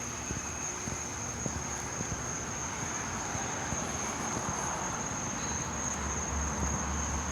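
Night crickets trilling in one steady high-pitched note, with a low rumble swelling in the second half.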